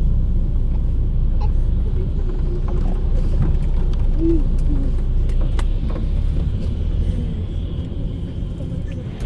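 Intercity coach cabin on the move: a steady low rumble of engine and road noise, with a few faint rattles and clicks. It eases off slightly near the end.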